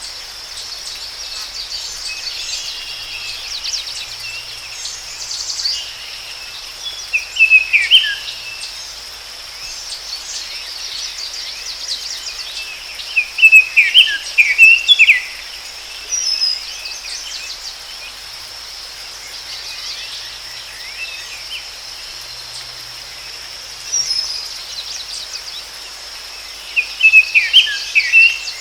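Forest ambience: a steady high insect drone, with a bird singing short bursts of quick chirping notes, loudest three times, about 7 seconds in, around 14 seconds and near the end.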